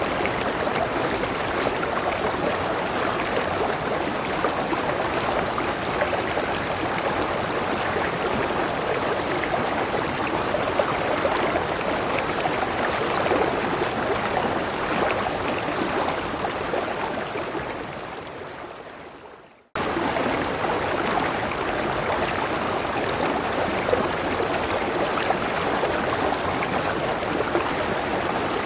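River water flowing steadily in an even rushing noise. About two-thirds of the way through it fades out over a couple of seconds to a brief silence, then cuts straight back in at full strength: an edit or loop point in the recording.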